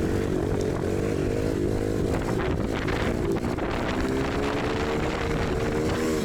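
A motor vehicle engine running steadily, its pitch drifting slowly up and down.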